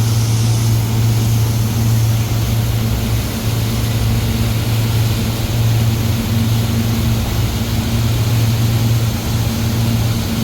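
A boat's motor running steadily at cruising speed, heard from on board: a constant low hum over the rush of noise.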